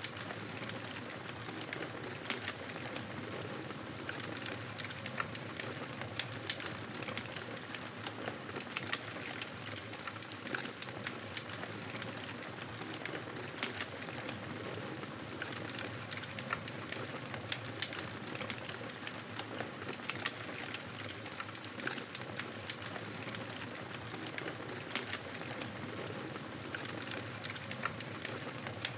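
Wood fire in a fireplace crackling: frequent sharp pops and snaps over a steady hiss.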